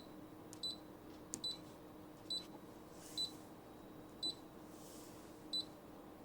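Brother PE900 embroidery machine's touchscreen buzzer giving short high beeps, about six of them at irregular intervals, each confirming a key press as the settings screen is paged through.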